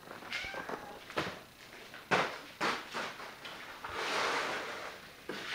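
Scattered knocks and clunks of things being handled, then a longer scraping, rustling noise about four seconds in.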